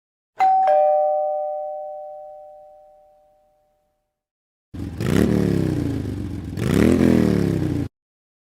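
Two-tone ding-dong doorbell chime, a higher note then a lower one, ringing out over about three seconds. After a pause comes a louder, low pitched sound of about three seconds whose pitch rises and falls twice.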